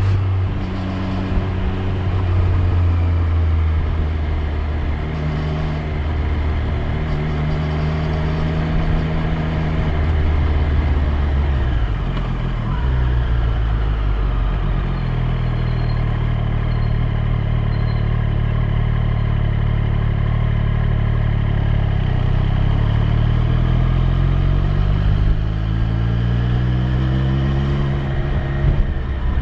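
Triumph Street Triple 765 R's three-cylinder engine running on the move. Its note holds steady, drops about halfway through, then climbs again near the end as the bike accelerates.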